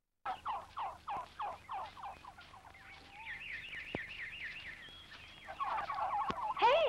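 Bird calls starting abruptly after a brief dropout: a quick run of calls falling in pitch, about three a second, then a rapid high warbling trill, then a jumble of overlapping calls near the end.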